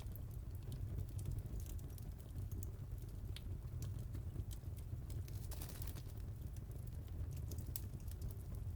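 Wood fire crackling: irregular small pops and snaps over a steady low rumble.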